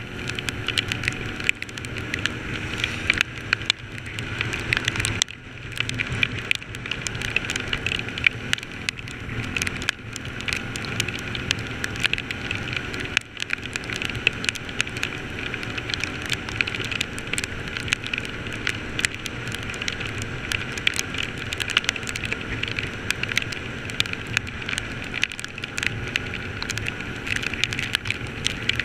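Steady rain falling: a dense, continuous patter of raindrops that dips briefly twice, about five and thirteen seconds in.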